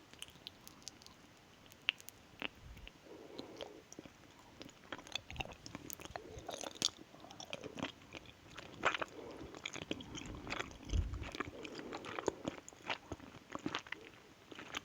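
Close-miked ASMR eating: biting and chewing, with many small sharp mouth clicks and a few crunchier bites.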